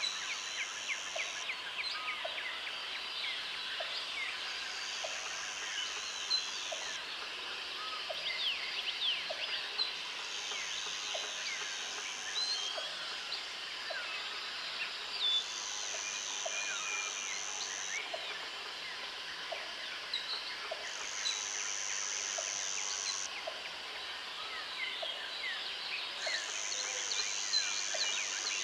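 Tropical jungle ambience: a dense chorus of many birds chirping, whistling and calling over one another, with an insect buzzing in a high, thin band that sounds for about two seconds and stops for about three, over and over. A soft lower note repeats about every second and a half underneath.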